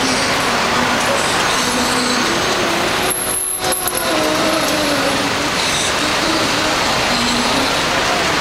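Loud, steady road traffic noise, with short wavering tones of a voice or melody faintly over it.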